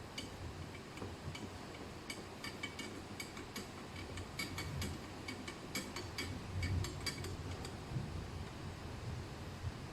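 Irregular light clicks and clinks of small hard parts and tools being handled, over a low background rumble.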